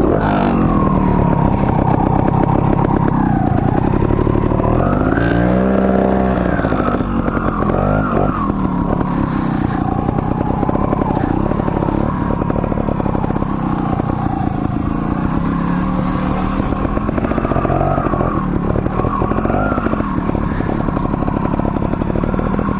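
Trials motorcycle engine running and revving up and down repeatedly, its pitch rising and falling several times.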